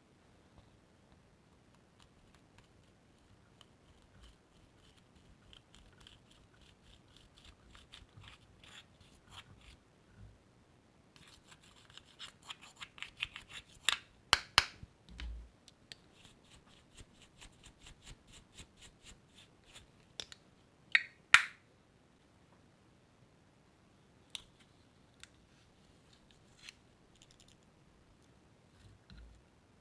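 Slime being squeezed and worked by hand, making rapid trains of small clicking, crackling pops from trapped air, with a few sharper, louder snaps partway through.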